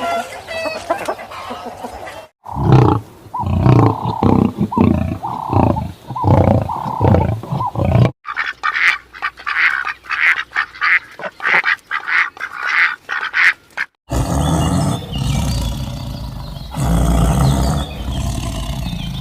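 Ducks and geese calling in a string of short clips that cut abruptly from one to the next, about two, eight and fourteen seconds in. Each clip holds repeated quacks or honks, and the last is a dense stretch of many birds calling at once.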